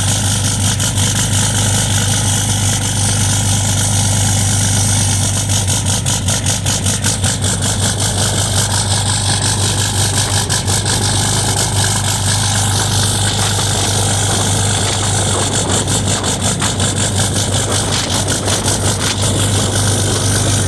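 2015 Ram 3500's 6.7-litre Cummins inline-six turbodiesel idling steadily, still cold shortly after a cold start.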